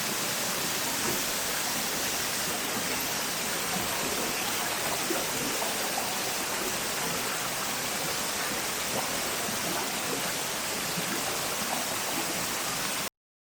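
Steady rushing water from a creek or falls, an even hiss that cuts off abruptly near the end.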